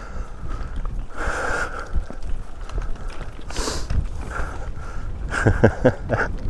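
Wind rumbling on the microphone, with two sharp breaths or sniffs about a second in and near the middle, and a faint voice near the end.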